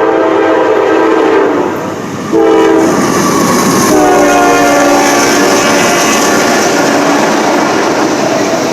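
Freight locomotive's horn sounding a chord: a long blast ends, a short blast follows, then another long blast, over the rumble of the passing train.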